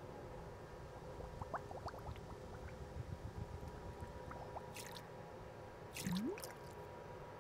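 Faint animation sound effects of the water droplet drying up: scattered short blips over a low steady hum, then a brief hiss and a rising wet squelch about six seconds in.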